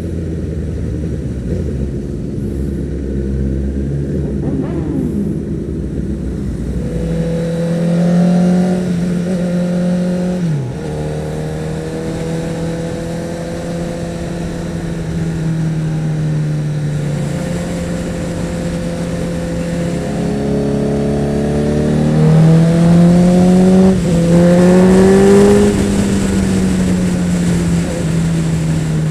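2012 Honda CBR1000RR Fireblade's inline-four engine pulling through the gears. The revs rise about a quarter of the way in, drop sharply at a shift, and hold steady for a while. They then climb again with a couple of quick upshifts near the end.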